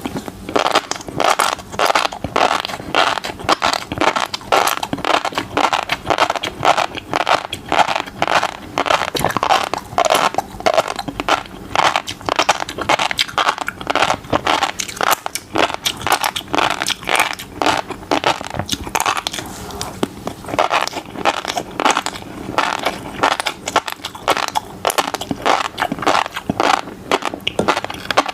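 Close-miked chewing of fish roe: the beads crunch and pop in a dense, rapid crackle of many sharp clicks a second.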